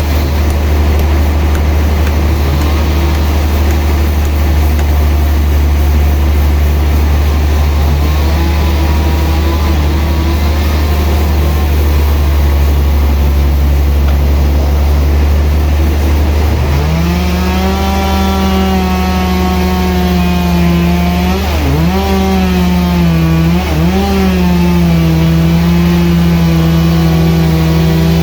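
Sawmill's engine-driven saw running steadily with a constant low drone; a little past halfway a higher whine rises in pitch and holds, dipping sharply twice as the machine's load changes.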